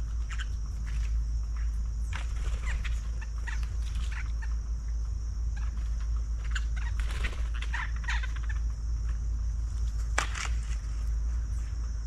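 Several small birds calling in short chirps and chattering notes, some rising or falling in pitch, scattered irregularly, with a sharper call about ten seconds in. Under them runs a steady high hiss and a low rumble.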